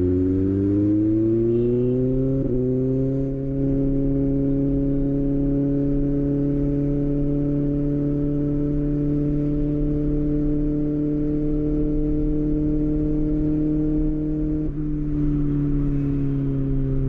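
Kawasaki ZX6R inline-four engine rising in pitch over the first couple of seconds, then held steady at raised revs, and easing down slightly near the end.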